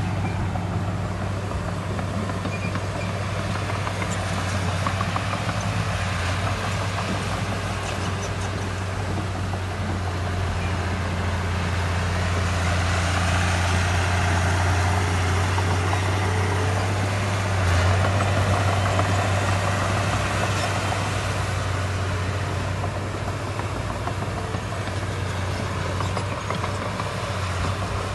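Heavy construction machinery's diesel engine running steadily with a deep, even drone. It grows somewhat louder through the middle, with a brief surge about 18 seconds in.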